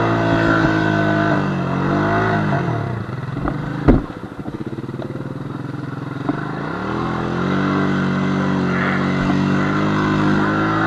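Honda FourTrax quad's engine revving under load through deep mud, the revs falling away to a low, pulsing idle about three seconds in, with a single sharp knock a second later, then climbing again and holding steady as it pushes on, barely moving.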